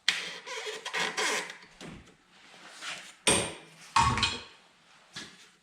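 Clanks, knocks and rattles of hand tools and metal parts being handled during work on a car's intake manifold, with three sharp knocks standing out, about a second apart near the middle.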